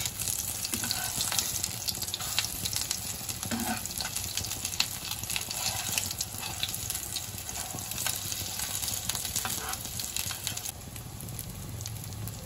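Breaded potato-and-egg kababs shallow-frying in a thin layer of oil in a nonstick pan on a low-medium flame, sizzling with a steady fine crackle as the crumb coating browns. The crackle eases a little near the end.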